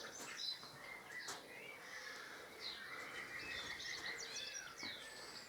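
Small birds chirping and singing in the background, a series of short high rising and falling calls, with a single faint click about a second in.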